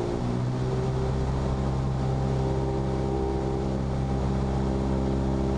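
Cessna 172P's four-cylinder Lycoming engine and propeller giving a steady drone, heard from the cabin, on final approach with a little power added.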